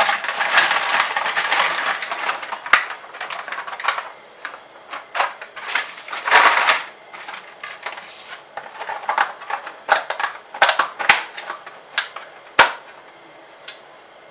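Handling noises: rustling near the start and again about halfway through, with scattered sharp clicks and taps.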